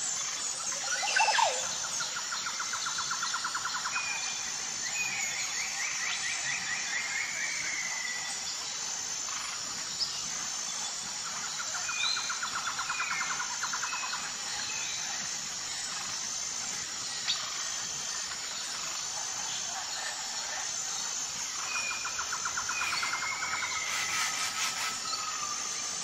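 A bird singing the same phrase about every ten seconds: a fast chattering trill, then a few short whistled notes and slurred glides. A steady high-pitched hum runs underneath.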